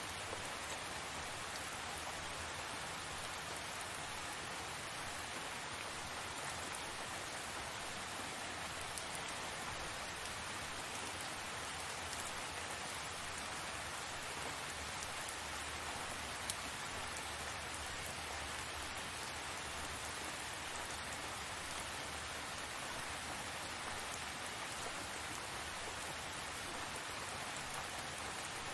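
Steady tropical rain falling, an even hiss with a few single drops ticking out of it, one sharper tick a little past halfway.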